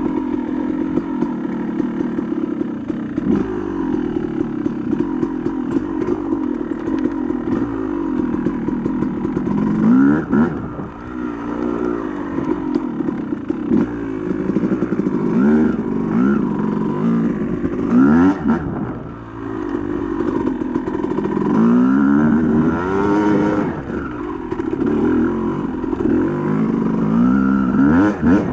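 Yamaha YZ250 single-cylinder two-stroke dirt bike engine under way on a trail ride. Its pitch climbs and drops again and again as the throttle is opened and closed.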